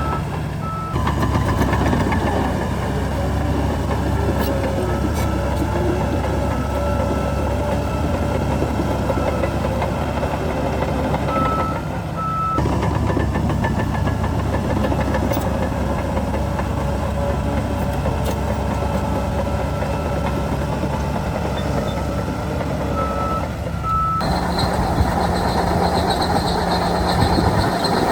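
Heavy diesel earthmoving machinery running under load, with a steady, thin high tone over the engine noise. The sound changes abruptly three times, about a second in, near the middle and near the end.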